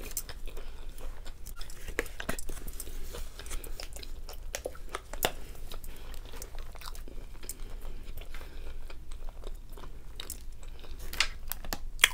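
A person chewing mouthfuls of a bacon cheeseburger, with wet mouth clicks and a few sharper crunchy bites, the loudest about five seconds in and near the end.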